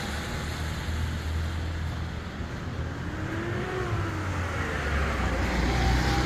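2024 Hyundai Tucson driving, a steady rumble of engine and road noise with a faint engine tone that rises in pitch a couple of times as it picks up speed.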